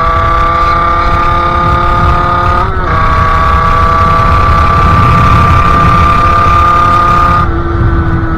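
Sherco 50cc two-stroke engine, breathing through a KRM expansion exhaust and Polini CP 17.5 carburettor, running at high revs under way, its pitch climbing slowly with a brief break about three seconds in. Near the end the throttle comes off and the revs ease down, over a low rumble of wind on the microphone.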